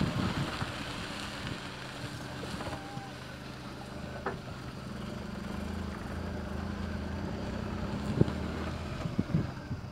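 Maruti Suzuki Alto's small petrol engine running steadily at low speed, heard from inside the cabin. A few sharp knocks come from the car jolting over a rough dirt track.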